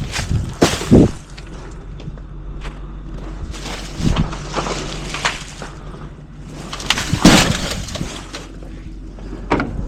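Trash being emptied into a garbage truck: several loud crashes and clattering impacts over the truck's steady engine hum.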